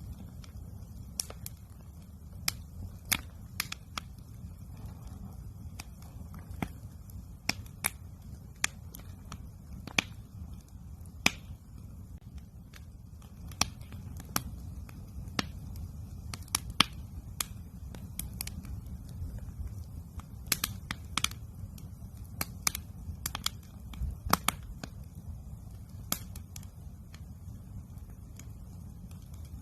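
Wood campfire crackling, with sharp irregular pops and snaps scattered throughout over a steady low rushing background.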